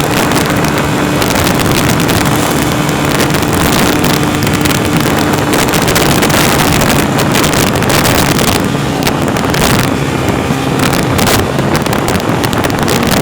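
A vehicle engine running steadily at road speed under heavy wind noise on the microphone.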